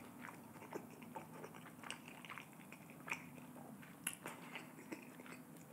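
Close-miked chewing of a mouthful of spicy glazed fried chicken wing: quiet, wet mouth sounds with scattered small clicks and smacks.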